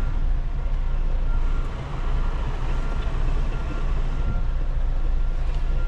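Semi truck's diesel engine idling steadily after backing into a dock, with a faint beep repeating a little under once a second.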